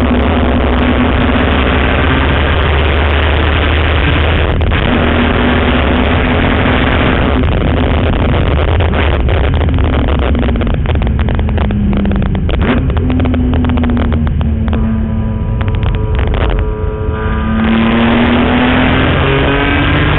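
BMW E46 M3's 3.2-litre straight-six engine at racing speed on track, its pitch holding, dropping and climbing through the gears, under a heavy rush of wind and road noise. The engine backs off briefly about three-quarters of the way in, then pulls hard with a rising note near the end.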